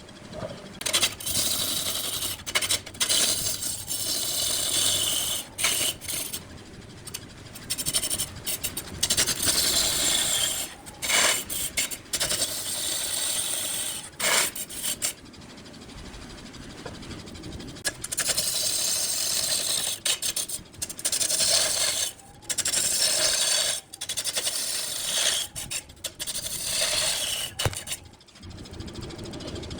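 Wood being cut on a lathe with a turning tool, a rasping, scraping hiss that comes in repeated passes of a second or a few seconds, starting and stopping abruptly.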